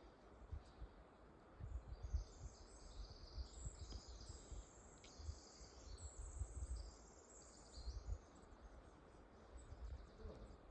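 A small songbird singing a long, high, rapid jumbled song of chirps and trills for several seconds, with low bumps and rumble on the microphone.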